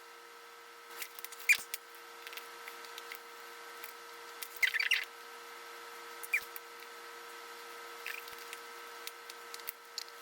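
Small scattered clicks and short scrapes of watchmaker's tools on a watch movement being taken apart, with a cluster of scraping ticks about halfway through, over a steady faint hum.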